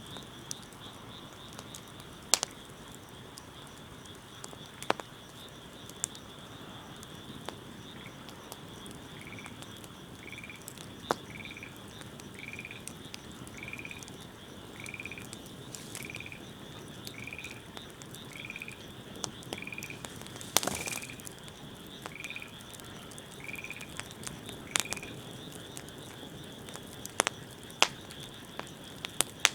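Wood fire crackling with sharp, scattered pops over a steady high drone. From about nine seconds in, an animal calls about once a second, some sixteen short calls in a row.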